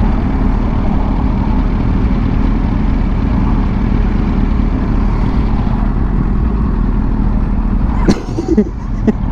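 Kawasaki Ninja 650 parallel-twin engine running steadily under way, with a haze of wind noise. A little after eight seconds the engine sound suddenly dips, with a few sharp clicks, then picks up again.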